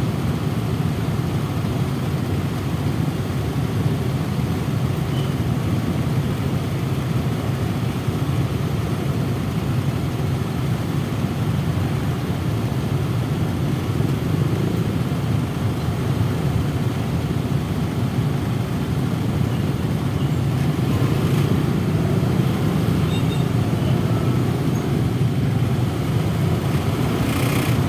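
Steady rumble of road traffic, motorcycle and car engines running together, with a brief sharp noise near the end.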